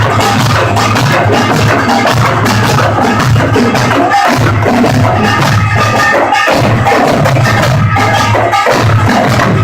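Pungmul troupe playing Korean folk percussion: gongs and drums struck together in a fast, dense rhythm. Loud and harsh, recorded on a low-quality phone microphone.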